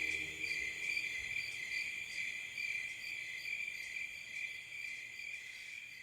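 Crickets chirping steadily in quick repeated pulses, a night-time ambience that slowly fades out.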